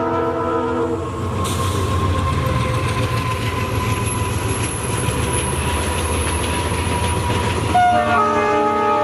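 A diesel locomotive's multi-tone horn cuts off about a second in, then the train rumbles past with a faint high wheel squeal. The horn sounds again near the end.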